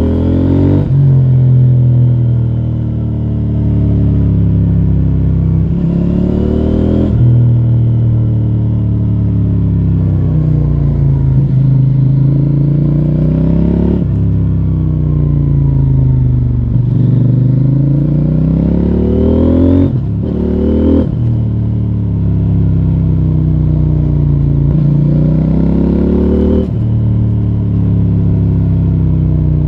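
2024 CFMoto 800NK Advanced's parallel-twin engine through its stock exhaust under way, its pitch climbing under throttle and then dropping sharply about four times, with slower falls in between.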